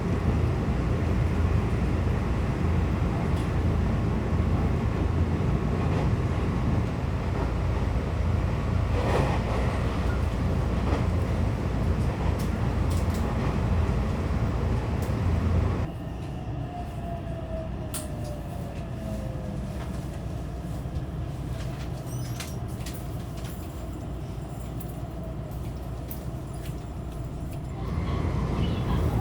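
Train running with a steady rumble. About halfway it cuts abruptly to a quieter run carrying a brief falling tone, then the louder rumble returns near the end.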